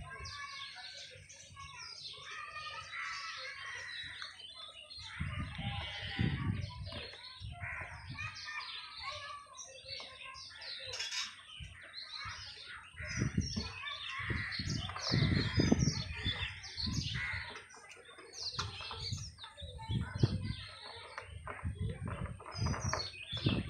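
Small birds chirping and calling throughout, with low, muffled bumps at intervals.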